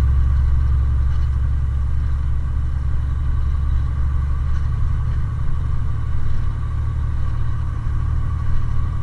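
Kenworth T660 semi truck's diesel engine running under throttle, heard from inside the cab as a steady low rumble with a faint steady whine above it.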